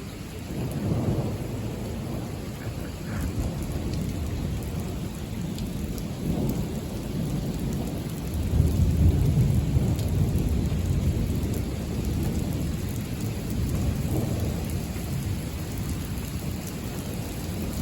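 Thunder rumbling on and off over steady rain, swelling to its loudest about halfway through.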